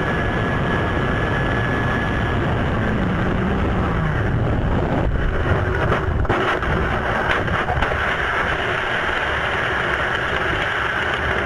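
Steady din of race car engines and track noise, with a few sharp knocks around the middle.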